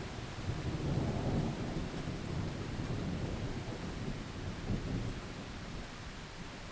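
Thunder rumbling low over steady rain. The rumble swells about half a second in and eases off after about five seconds, while the rain hiss carries on throughout.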